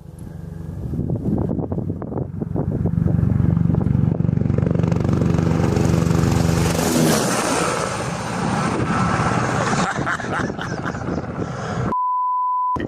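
A loud engine running under a heavy rushing noise, its pitch shifting about seven seconds in. A single-tone censor bleep sounds near the end.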